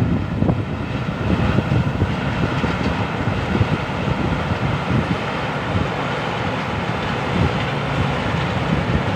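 Thai Siang Yon rice combine harvester with its Hino diesel engine running steadily, a smooth, even machine noise.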